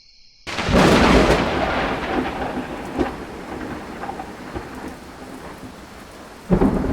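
A thunderclap about half a second in, rumbling and slowly fading into steady heavy rain, then a second thunderclap near the end.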